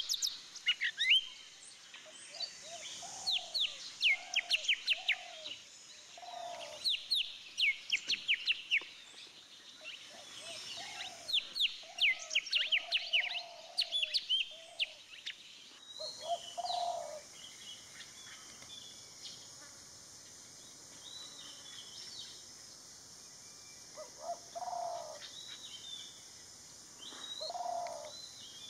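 Golden-fronted leafbird singing: quick runs of sharp, high, falling notes with lower notes mixed in. About halfway through, the recording cuts to a quieter passage of sparser notes.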